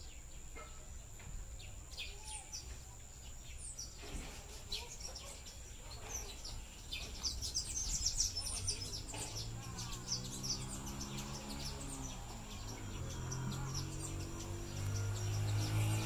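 Birds chirping with quick, high calls, thickest midway, over a steady high insect drone. A low, even hum rises in the last few seconds.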